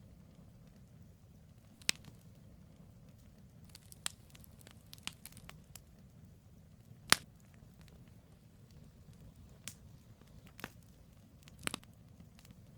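Campfire of burning firewood crackling: scattered sharp pops and snaps, about seven in all, the loudest about seven seconds in, over a low steady rumble.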